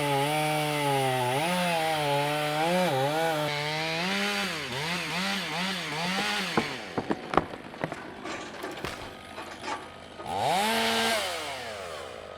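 Chainsaw running in a cut, its engine pitch rising and dipping over and over as it loads up in the wood. About halfway through the saw drops away into a run of sharp cracks and knocks, and it revs up briefly again near the end.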